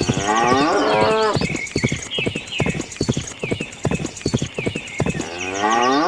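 A cow mooing twice, once at the start and again about five seconds in, with a run of irregular knocks in between.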